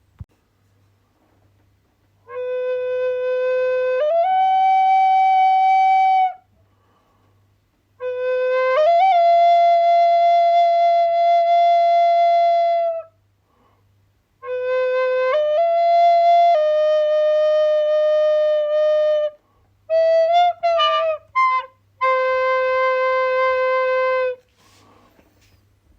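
A flute-like wind instrument playing slow phrases of long held notes with pauses between them; each phrase starts on a low note and steps up to a higher one, and a shorter run of quicker notes comes near the end.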